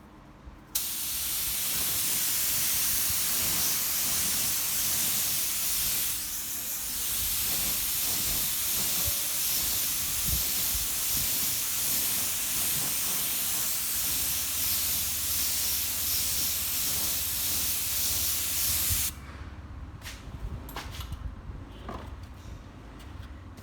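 Paint spraying onto the headlight housing: a steady hiss of spray that starts about a second in, dips briefly around six seconds, and cuts off near nineteen seconds, followed by a few faint clicks and knocks.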